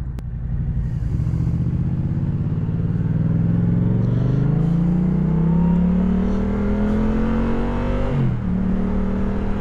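2016 Yamaha FZ-07's 689cc parallel-twin engine with its 270-degree crank, pulling hard under acceleration, its note rising steadily for several seconds. About eight seconds in the pitch drops as the rider shifts up a gear, then the engine holds steady at speed. Heavy wind rushes over the rider at highway speed.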